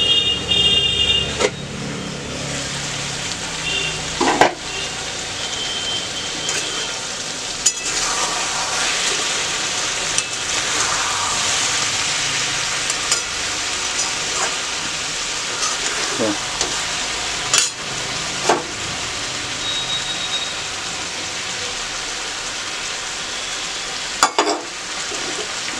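Chicken, potatoes and onions frying with a steady sizzle in a metal kadai, stirred with a metal spatula that knocks against the pan now and then.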